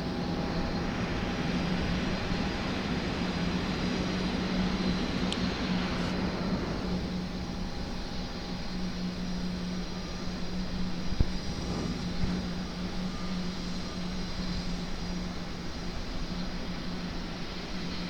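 Jet airliner engine noise: a steady drone, with a rushing swell that fades away about seven seconds in, and a brief click about two-thirds of the way through.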